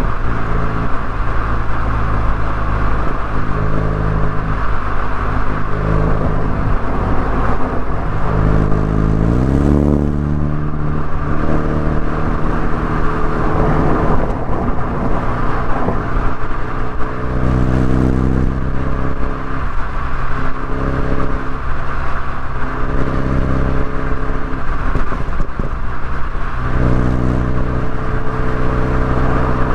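BMW Mini Cooper S engine and exhaust running under way on a winding road, with steady road noise underneath. About a third of the way in, the engine pitch climbs quickly as it revs up.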